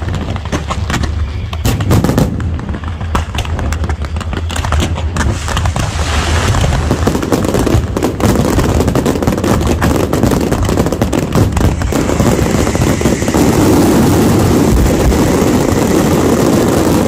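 Fireworks display heard close up: rapid, overlapping bangs and crackling from shells, mines and fountains going off one after another, thickening into a continuous dense barrage near the end.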